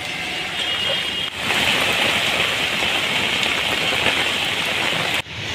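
Rain falling steadily, an even dense hiss. About a second in, a cut replaces fainter street noise with faint voices.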